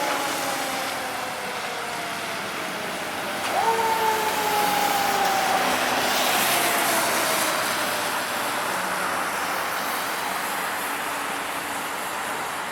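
Fire engine passing with engine and road noise as its siren winds down. About three and a half seconds in the siren gives one more short wind-up, then coasts slowly down in pitch and fades.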